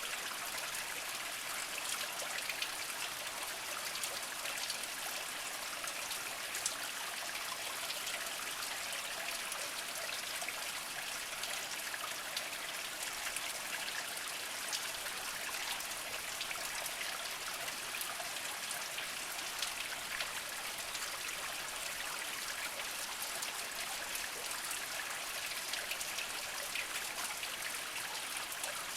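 A small spring trickling slowly over mossy rocks: a steady splashing trickle dotted with many small drip-like ticks.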